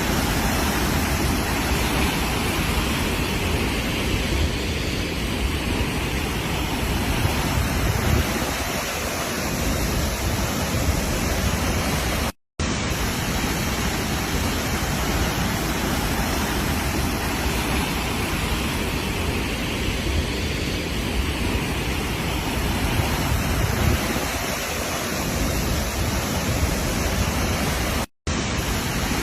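Waterfall: a steady, loud rush of falling water, broken twice by a brief moment of silence, once about halfway through and once near the end.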